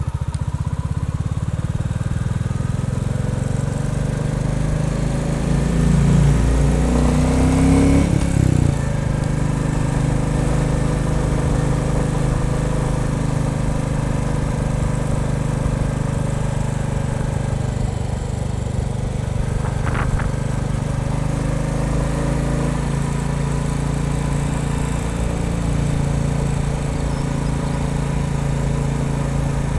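Royal Enfield Bullet 350 single-cylinder engine running steadily; about six seconds in the revs climb for a couple of seconds, then drop and settle again. One brief click about twenty seconds in.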